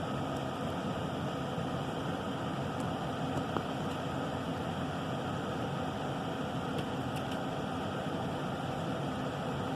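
Steady, even background noise with a faint low hum underneath and a couple of faint clicks.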